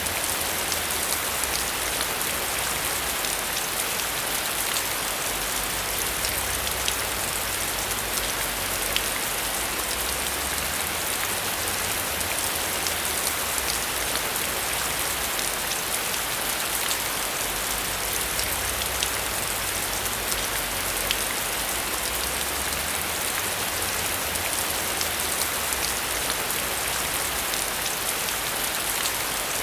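Steady heavy rain: a dense, even hiss of falling water with individual drops ticking through it.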